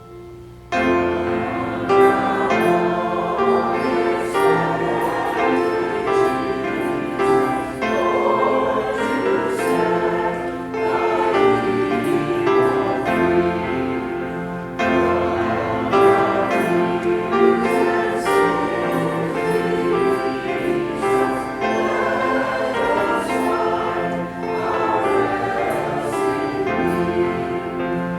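Church choir singing, coming in suddenly about a second in after a quiet moment.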